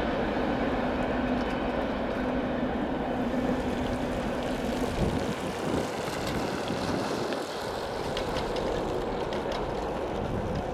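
Freight train rolling past with a steady rumble as its rear cars go by and move away. About five seconds in, a pickup truck drives close past.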